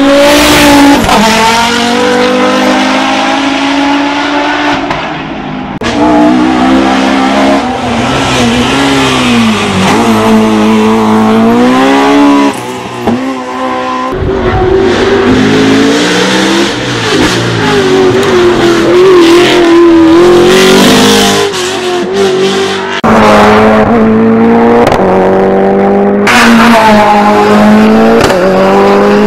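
Hill-climb racing cars at full throttle, their engine notes climbing in pitch through the gears and dropping sharply as they brake and downshift. The sound switches abruptly from one car to the next a few times.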